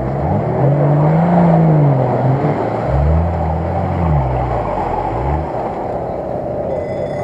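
Off-road 4x4's engine revving up and down several times as it churns through a muddy water pit, over the wash and splash of water and mud thrown by the wheels.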